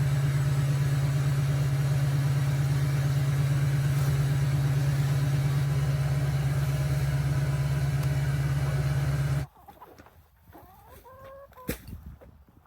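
A loud, steady low mechanical hum, like an engine running, that cuts off suddenly about nine and a half seconds in. After it stops, chickens cluck softly.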